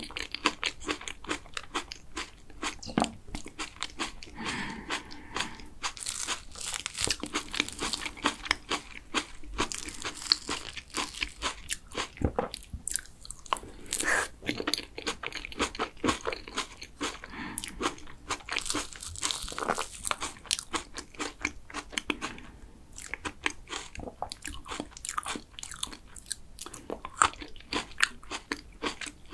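Close-miked mouth sounds of eating green grape cream cake: chewing and wet smacking, many small irregular clicks with no pauses.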